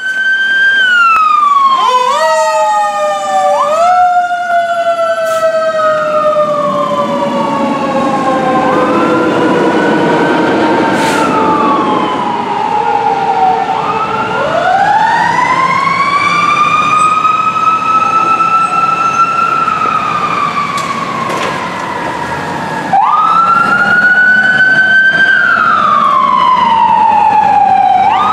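Fire apparatus sirens wailing as the engine and rescue pull out on a call: several siren tones overlap, each sliding slowly up and down in pitch. A big rise comes about halfway through, and a sharp jump up follows near the end, over the rumble of the trucks' engines.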